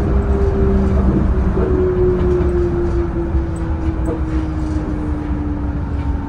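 Yurikamome rubber-tyred automated guideway train running, heard from the front cab: a steady low rumble with a whine that falls slowly in pitch as the train slows for a station.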